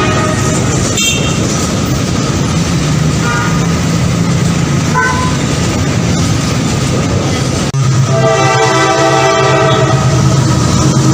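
Train passing with a steady rumble of running gear. About eight seconds in, after an abrupt break, a train horn sounds a long, steady chord of several tones.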